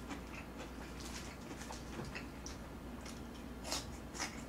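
Faint eating sounds of a person chewing with his mouth full: scattered small wet clicks and smacks, two sharper ones near the end.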